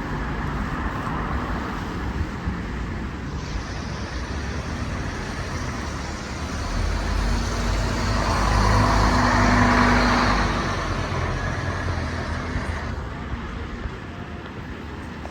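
Scania N230UD double-decker bus's engine running while under way, heard from on board. It swells to a louder low rumble with a steady drone about halfway through, then eases off again.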